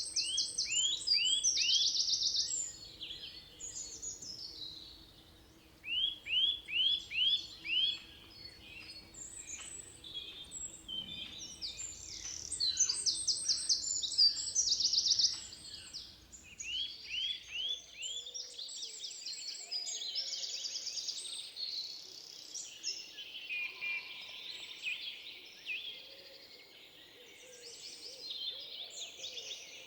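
Several songbirds singing at once: runs of short falling whistled notes, about five in a row, alternating with fast high trills, overlapping throughout.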